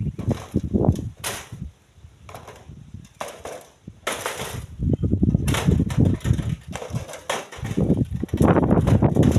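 Split stones being thrown by hand into a truck bed: irregular knocks and clacks of rock on rock and metal over a low rumble, quieter for a couple of seconds near the start, then busier again.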